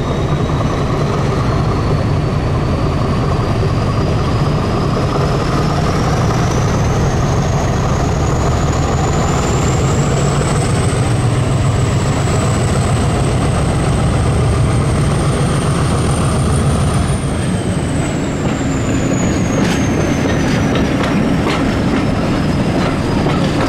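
Diesel-hauled train running, heard from a carriage window: a steady low engine drone with a high whine that rises in pitch as the train gathers speed. The whine falls and the drone eases about two-thirds of the way through as power comes off. A few wheel clicks over rail joints follow near the end.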